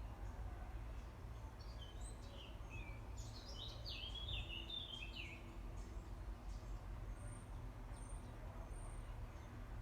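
Songbirds singing outdoors in quick chirping phrases of falling notes through the first half, then three short, very high peeps near the end, over a steady low rumble.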